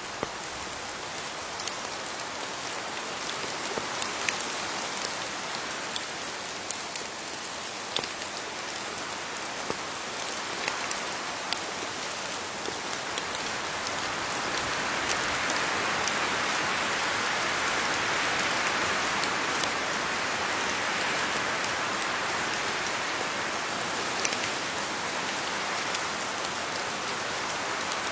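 Steady rain falling on leaves, with scattered individual drops tapping close by; the rain swells a little heavier about halfway through.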